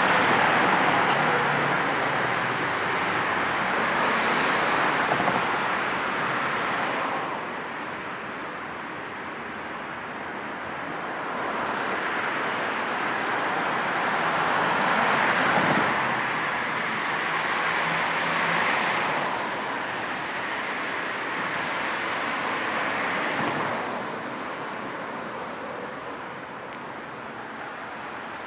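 Road traffic: cars passing one after another, each swelling and fading as a steady tyre and engine rush, with quieter lulls between them.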